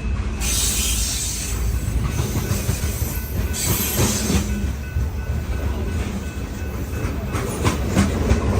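BNSF coal train rolling past: a steady rumble of wheels on the rails with a faint high wheel squeal, and a quick run of clicks from the wheels over rail joints near the end.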